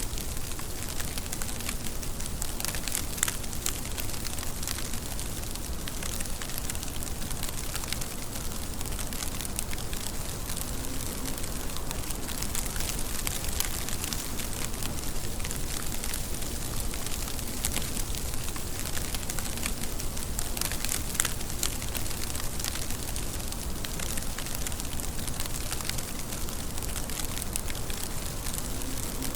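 Steady rain falling, with many fine, crackly drop ticks over an even hiss.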